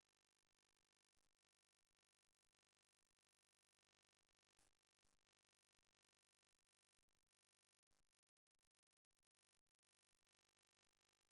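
Near silence: the soundtrack is essentially empty, only a faint noise floor.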